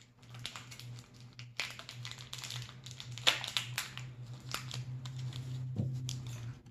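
Crinkling and rustling of a small plastic Shopkins blind bag being handled and worked open by hand: a string of irregular crackles over a steady low hum.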